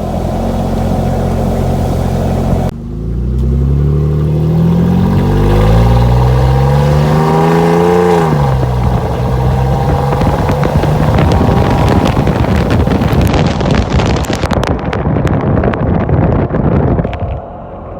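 Jeep engine running with the muffler removed, exhaust through the bare downpipe: a steady note, then a rising pull under acceleration for about five seconds that falls away suddenly as the throttle is lifted. After that, rushing wind and road noise through the open-top Jeep take over, easing near the end.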